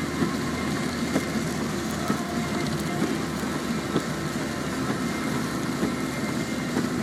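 Car driving in heavy rain: steady engine and road noise under an even rain hiss, with a few faint ticks.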